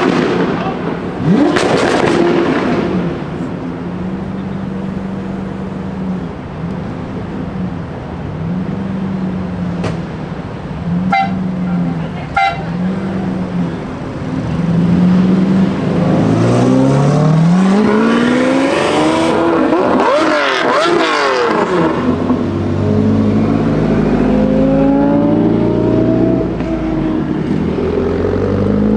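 Car engines at a meet, likely led by a Lamborghini Murciélago's V12. It starts with a couple of quick revs, then a steady idle that swells and falls slowly, with two short beeps in the middle. After that comes a long climbing rev as a car accelerates away, then several engines running together at low revs.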